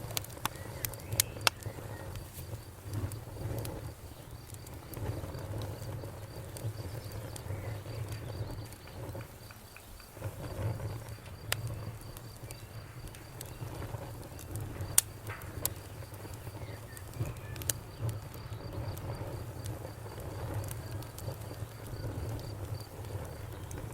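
Campfire burning, with irregular sharp crackles and pops over a low, uneven flutter of flames. The pops are scattered, with a few louder ones about a second in and around the middle.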